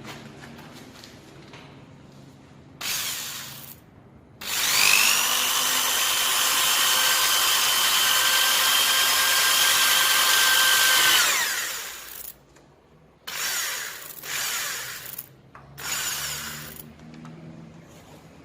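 Handheld electric power tool running: a short burst, then a long run of about seven seconds where the motor whines up to a steady pitch and winds down, followed by three more short bursts.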